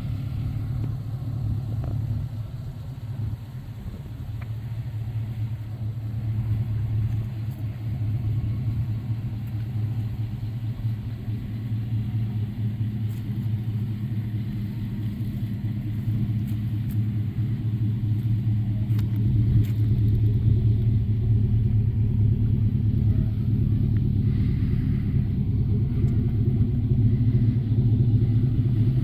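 V8 engine of a 2004 Chevrolet SS pickup running with a steady low rumble, growing gradually louder over the first two-thirds and then holding.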